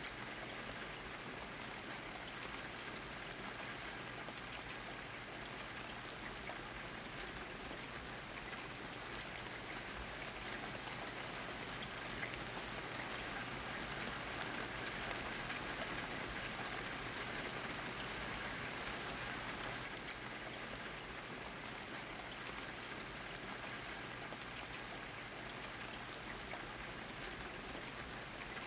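Steady rain falling, with many fine drops pattering on surfaces.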